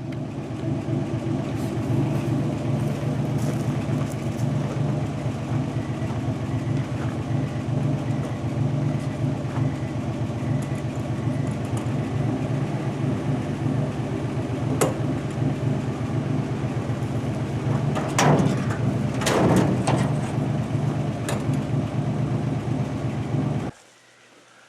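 Early-1960s GMC gasoline V6 engine idling steadily, left running to charge the battery, with a few short sliding high-pitched sounds over it about three-quarters of the way in. The sound cuts off abruptly near the end.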